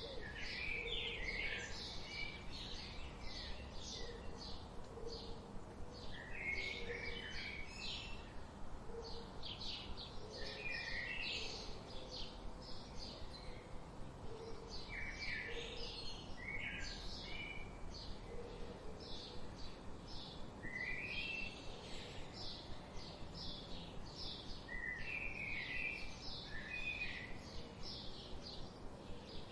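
Several birds singing together: a steady stream of rapid, high chirps, with a quick falling phrase every few seconds, and a lower short note repeating every second or two underneath.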